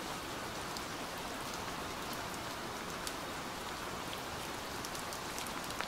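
Light rain falling on and around a reservoir: a steady hiss of rain with scattered drop ticks, holding even throughout.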